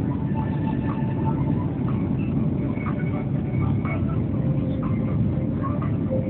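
Boeing 757-200 jet engines in a steady low rumble during take-off.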